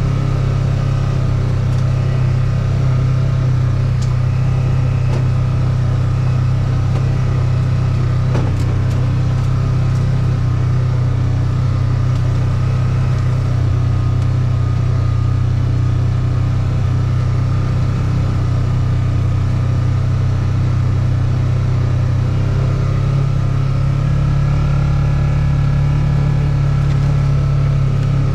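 An engine running at a steady speed with a low, even hum, unchanging throughout, with a couple of faint clicks.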